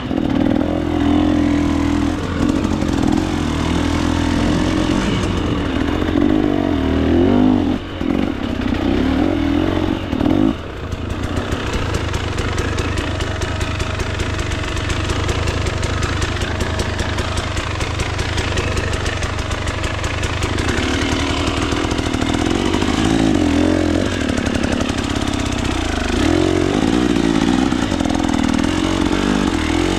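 Single-cylinder two-stroke engine of a KTM 300 XC-W dirt bike being ridden on a trail, revving up and down with the throttle. About ten seconds in the revs drop and the engine runs lower and steadier for about ten seconds, then revs rise and fall again near the end.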